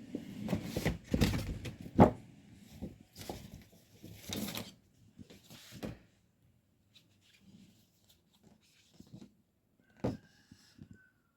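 Household items being handled during cleaning: a quick run of knocks, clatter and rustling for about six seconds, then a few faint ticks and a single sharp knock near the end.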